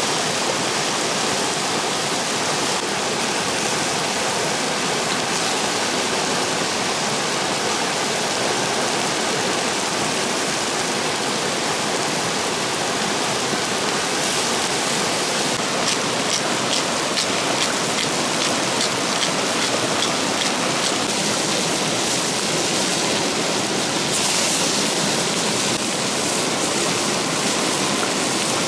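Steady rush of running water from a waterfall or stream, with a run of light ticks midway through.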